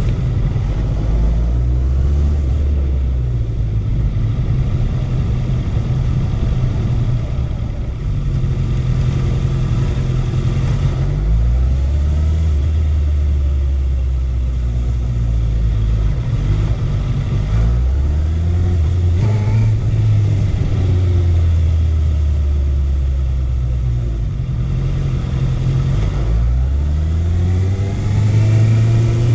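Honda CB650F's inline-four engine running under way. Its pitch steps and glides up and down as the bike speeds up, slows and changes gear, with a clear rise in revs near the end.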